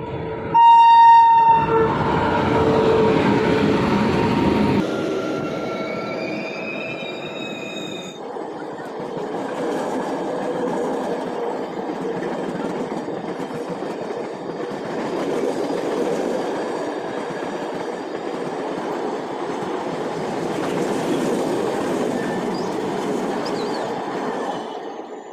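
Indian Railways passenger train passing close by. A loud horn starts about half a second in and sounds for about four seconds. Briefly after it comes a high squealing tone, then the steady rumble and clatter of the coaches rolling past, which fades near the end.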